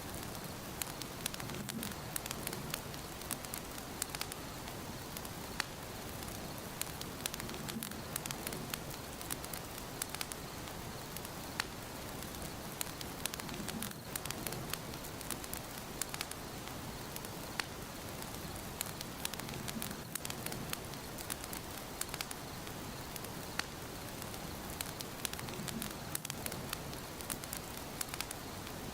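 Fire crackling in a fireplace: many sharp pops and snaps over a steady hiss, with a soft low swell of the flames about every six seconds.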